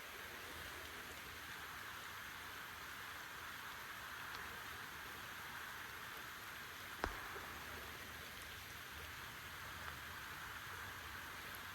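Steady rain hiss, with one sharp click about seven seconds in.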